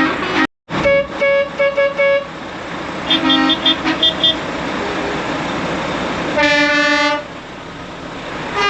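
Truck air horns tooting in strings of short blasts, then one longer blast about six and a half seconds in. A steady rumble of idling lorries runs underneath.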